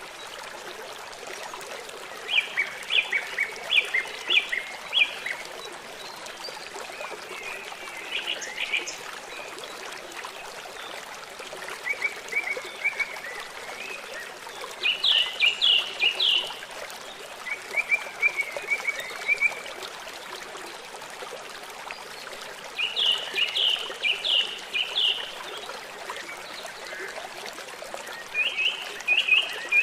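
River water running steadily, with a songbird singing short phrases of rapid high notes every few seconds over it.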